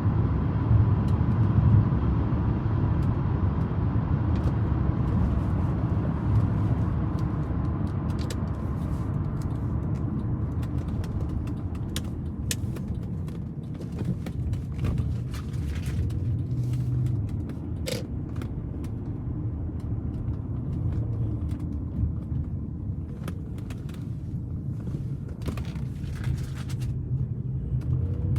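1998 Audi A8 on the move: a steady low engine and road rumble, with scattered light clicks and knocks through the second half.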